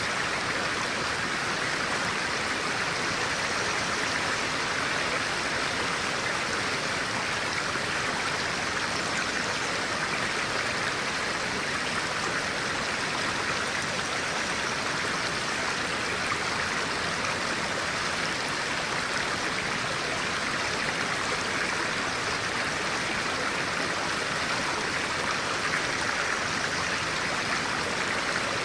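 A stream of clear water flowing with a steady, even rush.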